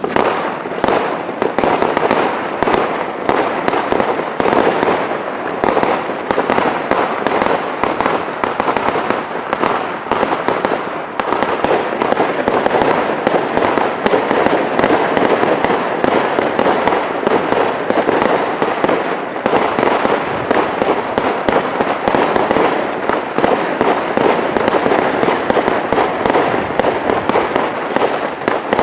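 Fireworks crackling: a dense, continuous rattle of many small pops with sharper cracks mixed in throughout.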